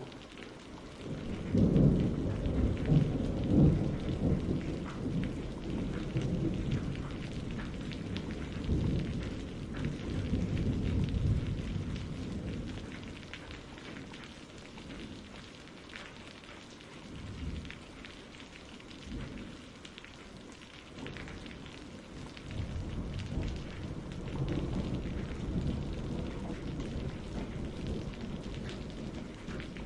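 Steady rain with rolling thunder: a long, deep rumble builds about a second and a half in, is loudest over the next few seconds and slowly dies away, and a second rumble rolls in near the end.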